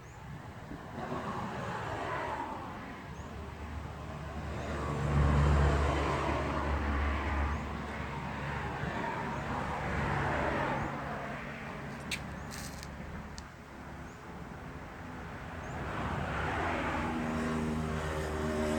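Road vehicles passing one after another, heard as several swells of traffic noise that rise and fade. The loudest passes about five seconds in with a deep hum, and an engine tone builds near the end.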